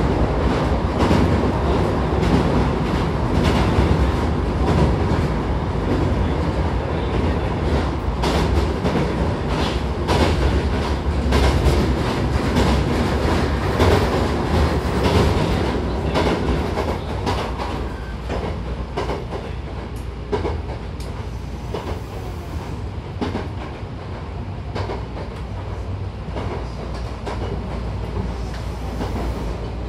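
Running noise inside a Hankyu 1000-series electric train car: a steady rumble with wheels clicking over rail joints and points. The clicks are busiest in the first half, and the running noise gets quieter in the second half.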